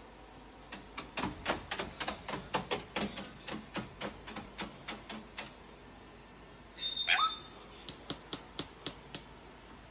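A quick run of sharp taps and clicks, about four or five a second, for roughly five seconds, then a short shrill call from a caique parrot about seven seconds in, followed by a few scattered taps.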